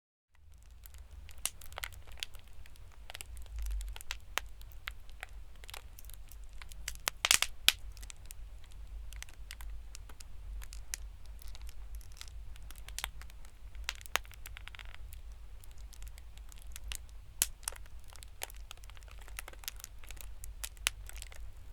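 Foley fireplace crackle made from bubble wrap and cigarette-pack cellophane: irregular sharp pops and crinkling crackles over a steady low rumble, starting suddenly. A burst of louder pops comes about seven seconds in.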